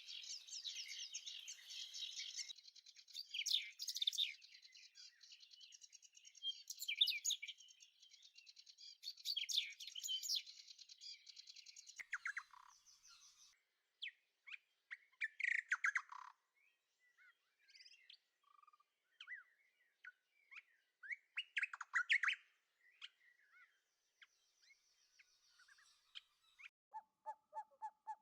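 Small birds chirping and twittering, densely for about the first twelve seconds and then in scattered short calls and trills.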